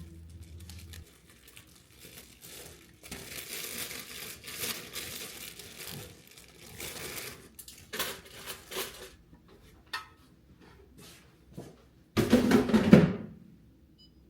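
Crinkling and rustling of kitchen handling, irregular and on and off, with a louder burst of noise about twelve seconds in. Soft background music fades out just after the start.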